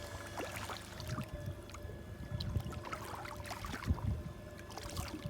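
Water splashing and trickling around a fishing boat, with scattered knocks and a steady low hum from the boat.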